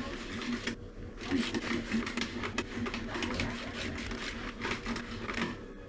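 Parmesan cheese being grated onto bread: a rapid, scratchy rasping of repeated strokes, with a short pause about a second in.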